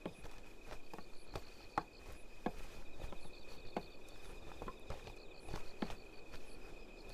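Crickets chirping steadily, with evenly spaced footsteps about every two-thirds of a second.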